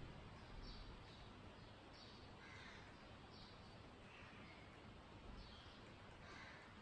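Near silence with faint, repeated bird chirps, short calls coming about one or two a second over low room hiss.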